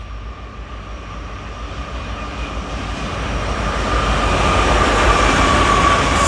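Freight train with diesel locomotives approaching, its low rumble growing steadily louder, with a steady high-pitched whine over it. A brief burst of hiss comes right at the end.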